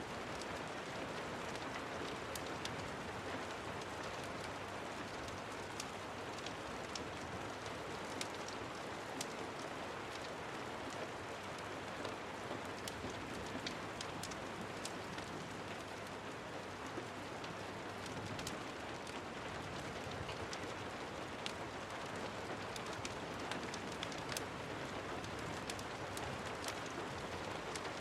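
Steady rain, an even hiss with scattered sharp ticks throughout.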